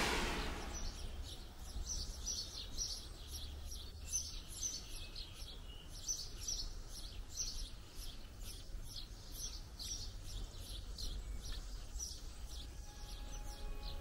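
Birds chirping outdoors, short high notes repeating about two or three times a second, over a faint low rumble.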